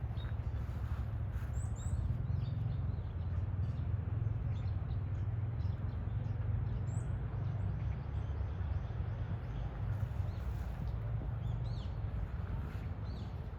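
A steady low rumble with faint, scattered chirps of small birds over it.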